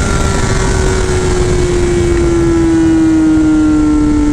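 Motorcycle engine running at high revs in one gear, its pitch sinking slowly and steadily as the rider eases off, over a heavy rush of wind and road noise.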